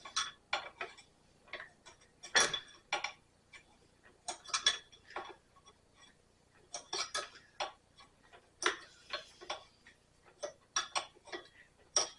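Irregular metallic clicks and clinks of hand tools and small engine parts being handled during reassembly, a few sharp knocks a second with short pauses between them.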